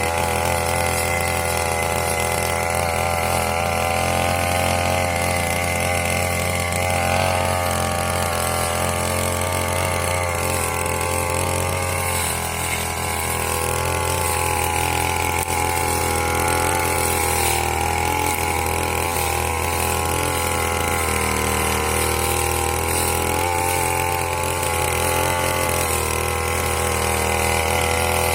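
Small petrol engine of a grass-cutting machine (brush cutter) running steadily, its pitch wavering slightly up and down as it works.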